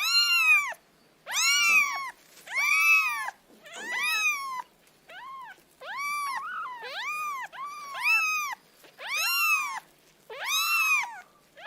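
Domestic cat meowing over and over: about ten separate meows in quick succession, each rising and then falling in pitch.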